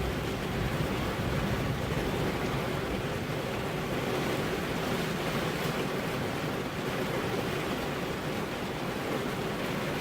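Steady rain falling, an even wash of noise with no single drops or thunderclaps standing out.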